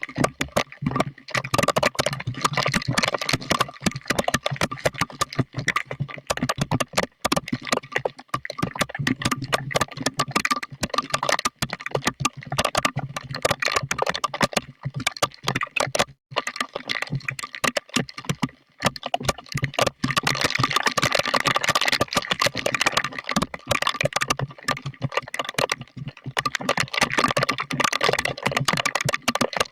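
Heavy storm rain hitting a hard surface close to the microphone: a dense, fast, uneven patter of drop impacts.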